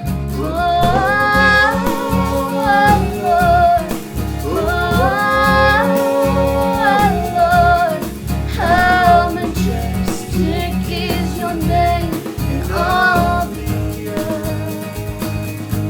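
Worship band music led by acoustic guitar, with bass underneath and a melody line of held, gliding notes in phrases of about two seconds.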